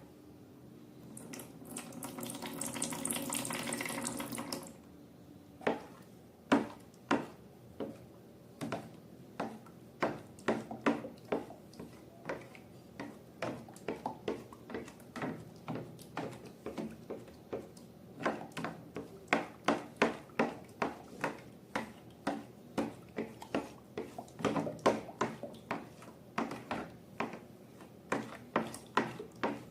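Slime being worked by hand. A few seconds of wet rushing noise swells near the start and stops abruptly, then comes a long, irregular run of short, sharp wet clicks and pops, two to four a second, with brief pauses.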